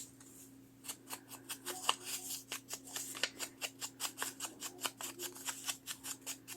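Scissors cutting paper in quick, even snips, about five a second, starting about a second in.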